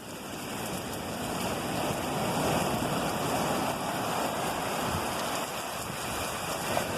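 Heavy ocean surf: a big wave breaking and rushing in, its roar building over the first two or three seconds and then slowly easing off.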